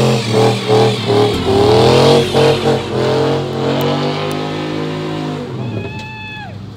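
Car engine revving hard, its pitch rising and falling again and again, then easing off. Near the end comes a brief high-pitched squeal that drops away.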